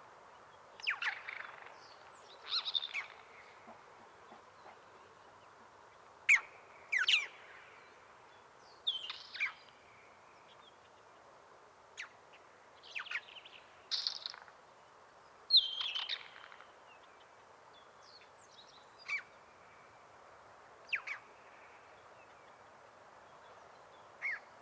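Isabelline wheatear singing: short separate phrases every one to three seconds, full of mimicry, including imitations of horse sounds.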